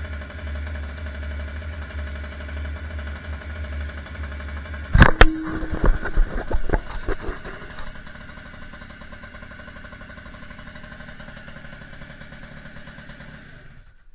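Babetta 215 moped's 50 cc two-stroke single-cylinder engine running steadily on a cold start in frost, with a burst of loud knocks and clatter about five seconds in. After that the engine runs on more quietly.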